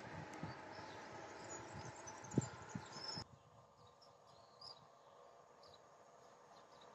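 A receding train's low rumble with a few thumps, the sharpest about two and a half seconds in, cuts off abruptly after about three seconds. It gives way to faint, quiet outdoor background with a few high chirps.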